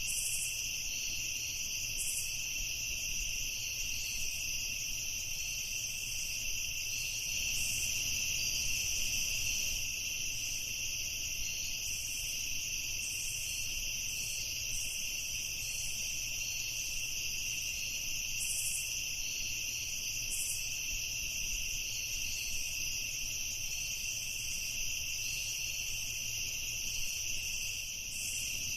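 Night insect chorus: crickets trilling steadily in two high-pitched bands, with short higher chirps every second or two.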